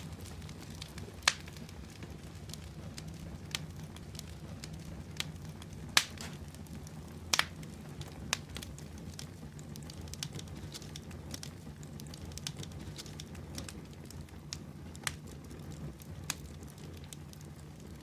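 Wood fire burning in a fireplace: a steady low rumble of flames with scattered crackles and sharp pops, three of them louder than the rest.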